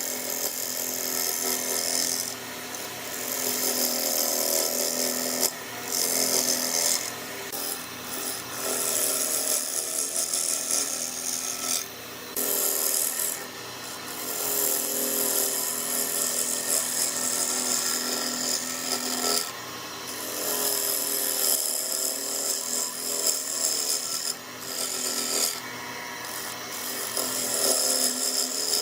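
Wood lathe running with a turning tool scraping into the spinning wood. The cutting noise breaks off briefly every few seconds over a steady motor hum.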